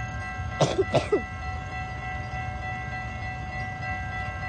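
Distant Metra commuter train approaching: a steady low rumble under several steady high tones, with a few short, falling squeaks about a second in.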